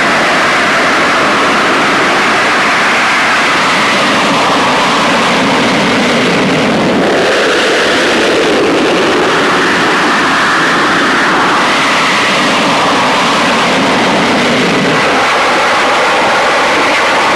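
Jet aircraft engine noise, loud and steady, with its tone shifting a couple of times.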